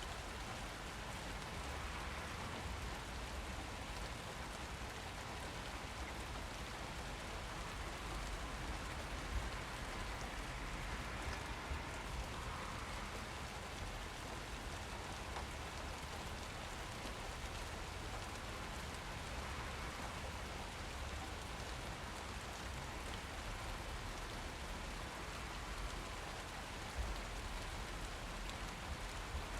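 Steady rain falling and pattering on surfaces, with a few louder drops standing out now and then.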